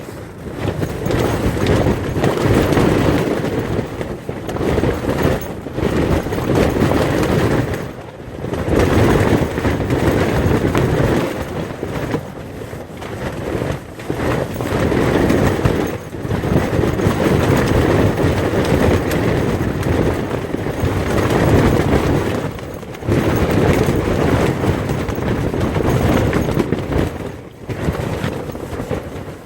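Strong desert wind storm buffeting a rooftop tent, a loud low rushing that surges and eases in gusts every few seconds, with brief lulls.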